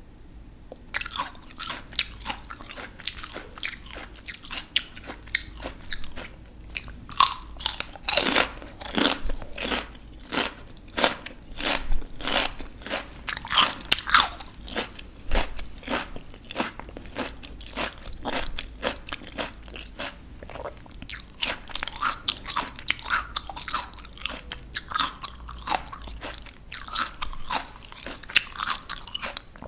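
Close-miked mouth sounds of crisp raw vegetables being bitten and chewed: a dense run of sharp, wet crunches, several a second, starting about a second in.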